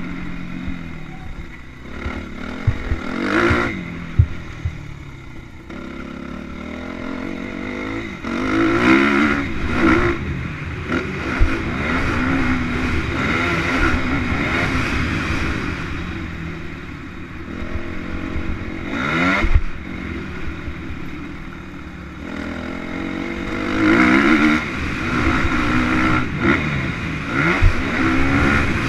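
Motocross motorcycle engines revving up and falling back again and again, the pitch rising and dropping as the bikes accelerate and brake around the dirt track, with louder swells as they come near. There are a few sharp knocks among them.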